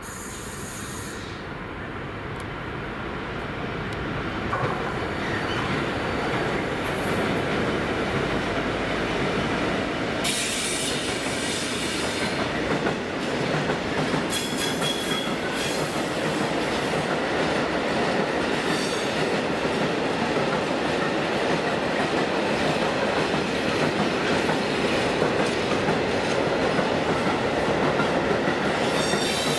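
A DB Cargo Class 66 diesel locomotive, with its two-stroke V12 engine, approaches and passes at low speed, growing louder over the first several seconds. A long rake of covered steel-coil wagons then rumbles by with wheel and rail noise, with a brief squeal about halfway through.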